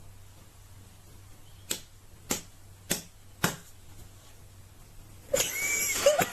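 Four sharp clicks about half a second apart in a small room, then a louder, noisy stretch with brief pitched sounds near the end.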